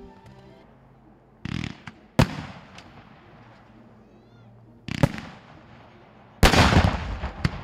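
Fireworks going off in separate bangs: a short burst, then a sharp crack about two seconds in, another bang about five seconds in, and a longer crackling burst near the end.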